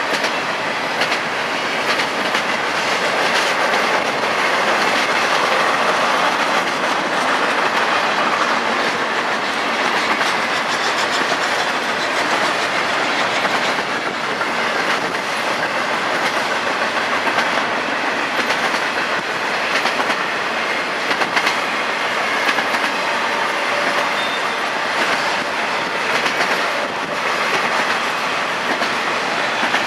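Freight train cars rolling past with a steady rumble, their wheels clicking over rail joints.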